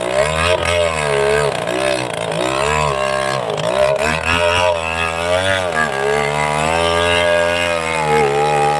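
Two-stroke chainsaw engine running hard, its pitch dipping and recovering about once a second as the saw is worked, then holding steadier for the last few seconds.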